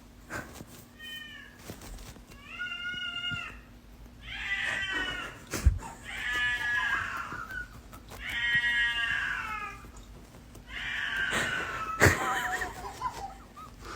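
A domestic cat meowing over and over: about seven long, drawn-out meows, each a second or so, with a couple of short knocks in between.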